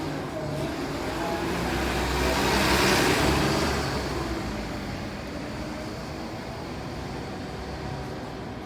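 A road vehicle passing close by on a city street. Its noise builds to its loudest about three seconds in, then fades into steady traffic hum.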